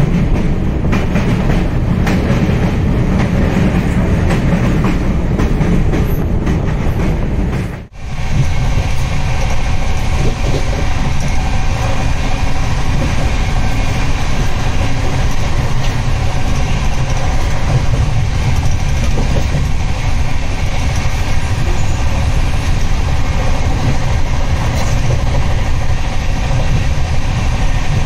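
Rumble and clatter of the Barmer–Howrah Express's wheels on the rails as the train runs at speed, heard from the coach: first over an old steel girder bridge, then, after a brief break about eight seconds in, along open track.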